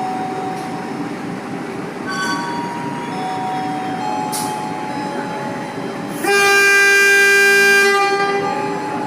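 Train running through the station, a steady rumble with faint held tones, then one loud locomotive horn blast of about a second and a half to two seconds, starting a little over six seconds in.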